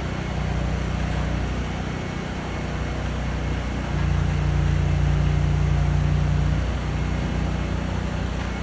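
Truck engine running steadily while a PODS container is loaded, growing louder for a couple of seconds in the middle before settling back.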